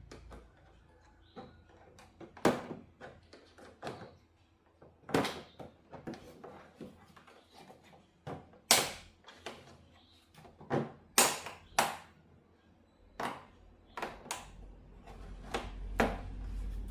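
Workbench handling noise from taking apart a TV: a series of irregular sharp clicks and knocks, about a dozen, as tools and parts are picked up, set down and worked.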